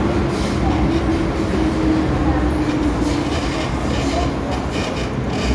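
MTR M-Train metro train running, a steady rumble with a hum that sinks slightly in pitch over the first few seconds and light clicking from the wheels.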